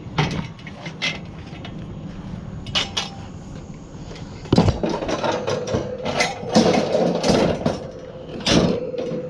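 Knocks and clatter of junk being handled and moved: a few separate knocks early on, then about four and a half seconds in a busier run of knocks and rattles with a steady hum beneath.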